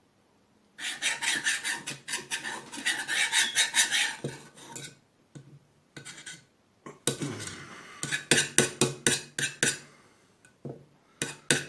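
Brisk back-and-forth scrubbing strokes, about four or five a second, on the steel body of a Tonka tip truck, working off black paint softened by paint stripper. The strokes come in three bouts: about a second in, again about seven seconds in, and near the end.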